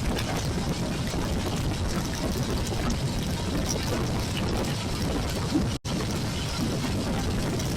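Steady rush of wind and heavy rain on an action camera's microphone during a ride on a Royal Enfield Classic 350, with the motorcycle's engine running under the noise. The sound cuts out for an instant about six seconds in.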